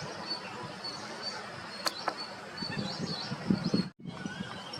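Birds chirping in short, repeated high notes over a steady outdoor hiss, with a sharp click about two seconds in and a brief dropout shortly before the end.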